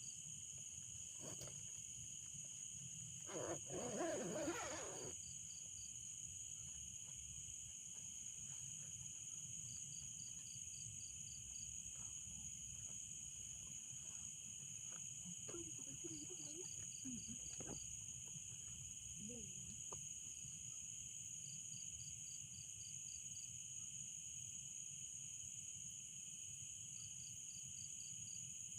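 Steady chorus of insects, with short trains of about six rapid chirps repeating every five to six seconds. A louder, wavering call breaks in briefly about four seconds in.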